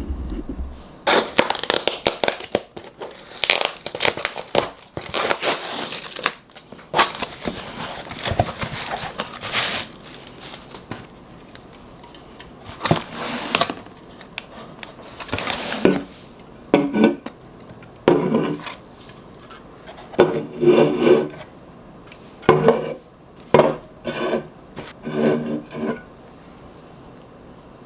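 Clinking and handling of dishes and cutlery with crunching, in irregular bursts, then a run of short separate bursts in the second half.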